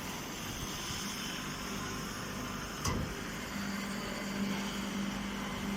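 Steady machine hum and noise, with a single sharp click about three seconds in.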